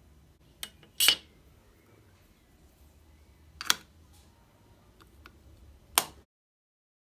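A few sharp clicks and snaps of small hard objects being handled, four in all, the loudest and longest about a second in; the sound then cuts off abruptly about six seconds in.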